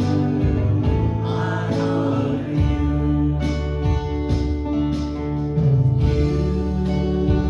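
Live worship band music: sustained chords over a strong bass line with a steady drum beat, and some singing.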